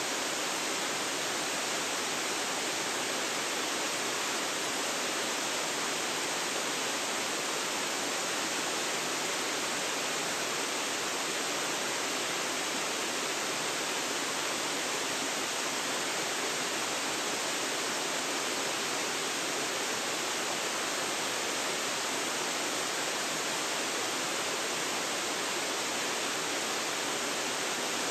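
Waterfall: water falling and rushing steadily, an even, unbroken roar with no pauses or changes.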